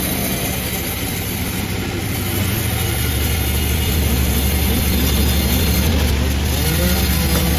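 Chainsaw engine running steadily, growing a little louder about two and a half seconds in.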